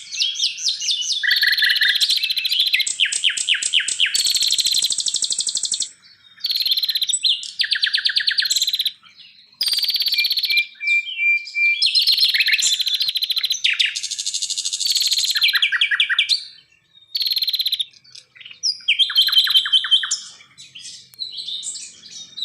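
Wild songbird song: bursts of rapid trills and quickly repeated sharp notes, each phrase lasting one to three seconds, with brief pauses between phrases.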